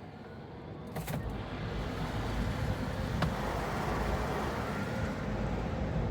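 Car wash air dryers heard from inside the car, a rushing blow that builds steadily louder as they come up to speed after a click about a second in.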